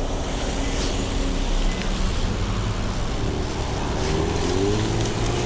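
Rush-hour road traffic: car engines running with a steady low rumble, and a vehicle accelerating about three seconds in, its engine pitch rising.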